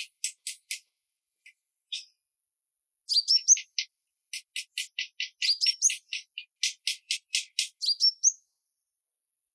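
A songbird chirping: quick runs of short, high chirps with a few upward-sliding notes, broken by short pauses and stopping near the end.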